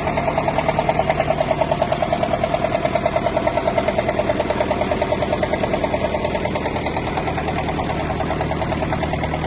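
Ferguson tractor engine idling steadily with an even, pulsing beat.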